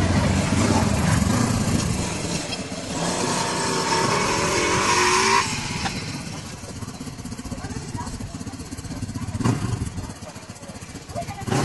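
Motocross bike engine running and revving, its pitch climbing, then dropping off suddenly about five seconds in to a quieter running sound.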